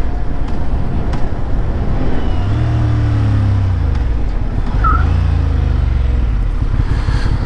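Motorcycle engine running while riding, its pitch rising and falling twice as the throttle is opened and eased off, over steady wind noise.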